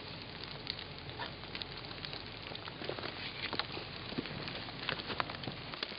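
Light rain pattering: a steady soft hiss with scattered drops ticking irregularly.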